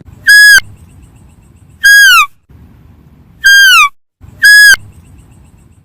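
A deer calling with four short, high whistles, each holding one pitch and then dropping away at the end.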